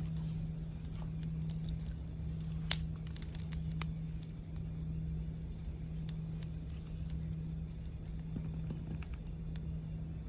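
Campfire crackling with scattered sharp pops, two of them louder about a quarter of the way in and near the end, over a low rumble and a steady low hum.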